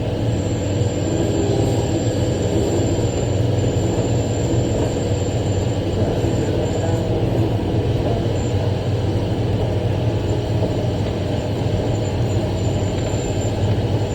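Large mining haul truck's diesel engine and drivetrain running steadily, heard from inside the cab as a loud, even low hum, with a thin high whine that comes and goes.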